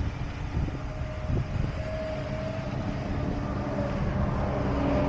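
Heavy diesel truck engines running with a steady low rumble, one engine tone shifting slightly in pitch.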